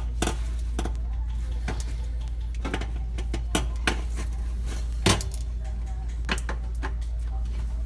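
Irregular light clicks and rattles of small parts being handled, as a protective wire shield is worked onto the leads of a new gas oven igniter, over a steady low hum.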